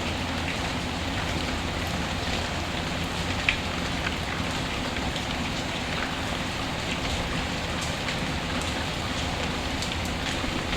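Steady rain falling, mixed with the occasional sharp crackle of a wood fire; one crackle stands out, about a third of the way in.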